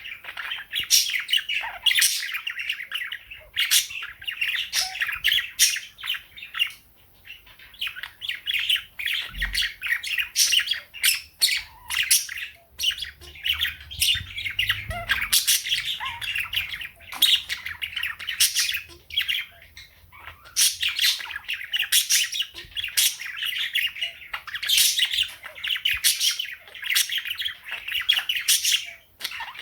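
Pet budgerigars and a cockatiel chirping, chattering and squawking continuously, with a brief lull about seven seconds in.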